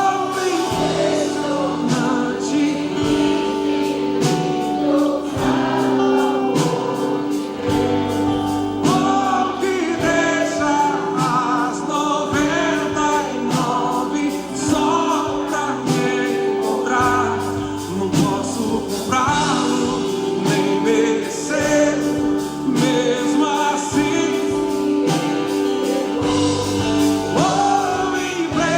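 Gospel worship song sung live: voices singing over long held chords and a steady beat.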